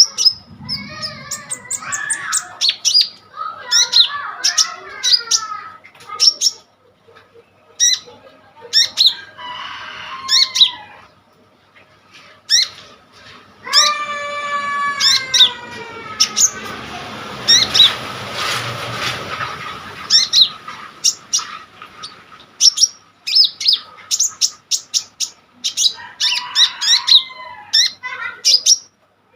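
Kolibri ninja sunbird singing vigorously: a rapid, varied string of sharp high chirps and trills, with a noisy rustling burst a little past the middle.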